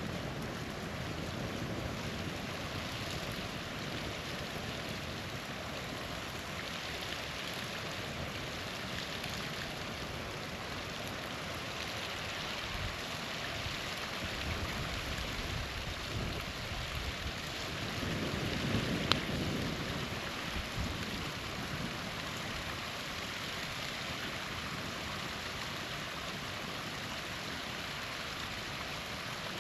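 Small waterfall splashing steadily, with a single sharp campfire pop about two-thirds of the way through, amid a brief swell of low rumble.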